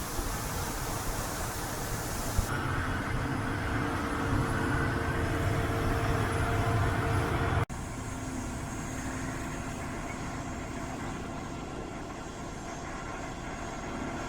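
Farm harvest machinery, a combine or tractor, running with a steady drone. The sound changes abruptly twice, about two and a half and about eight seconds in.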